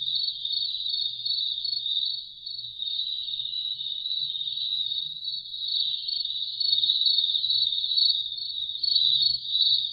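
Recorded crickets chirping in a steady, fast pulsing trill, played from the crickets setting of a SoundMe noise machine.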